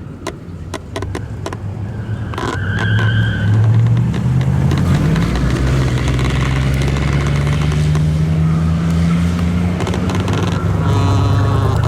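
A car engine running loud: it swells and rises in pitch about two to four seconds in, then holds steady and strong. A brief high squeal comes as it picks up, and there are a few sharp ticks near the start.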